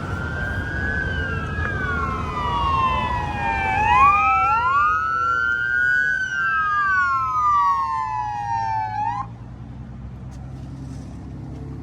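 Two emergency-vehicle sirens wailing together, each rising quickly and falling slowly a little out of step, until both cut off suddenly about nine seconds in. A low engine hum runs underneath and carries on after the sirens stop.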